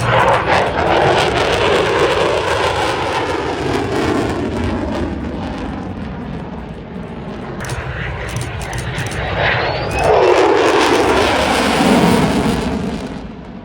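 Aircraft flying past with a loud rushing engine noise that falls in pitch as it goes by, near the start and again more loudly about ten seconds in. The sound drops away abruptly near the end.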